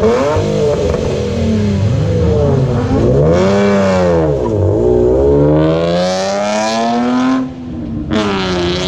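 Nissan 370Z's 3.7-litre V6 being revved hard through its exhaust in a series of rises and falls. Two quick revs are followed by a long climb to high revs about five seconds in. The engine drops off suddenly, then is revved again near the end.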